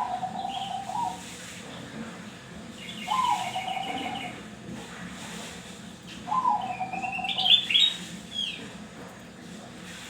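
Zebra dove (perkutut) cooing: three phrases about three seconds apart, each opening on a higher note and dropping into a short run of lower notes. A smaller bird chirps and trills higher up between the coos.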